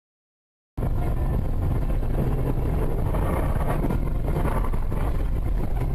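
Dash-cam recording of a moving car: a steady low rumble of engine and road noise with wind buffeting the microphone, cutting in abruptly after a moment of silence.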